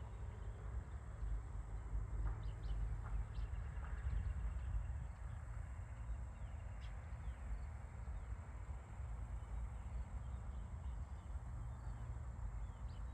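Countryside ambience: a few short, thin bird chirps scattered through, over a steady low rumble and a faint, steady high-pitched tone.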